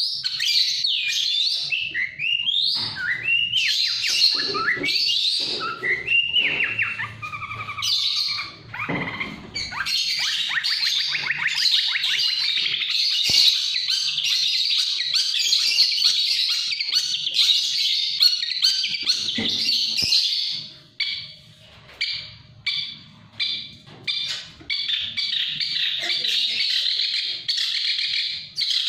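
A songbird singing a dense, fast stream of high chirps and trills, with a few sliding whistled notes in the first seconds. About two-thirds through, the song breaks into short phrases with brief gaps before running on steadily again.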